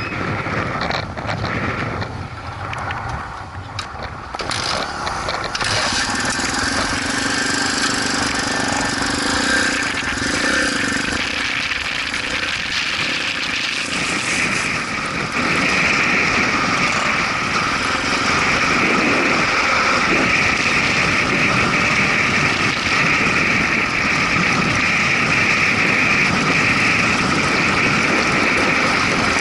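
Motorcycle engines running, getting louder about five seconds in and again around fifteen seconds in, then holding steady.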